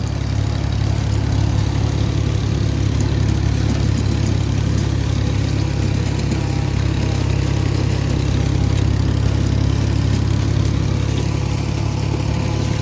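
Farm tractor engine running steadily at an even, low hum while pulling a hay rake across the field.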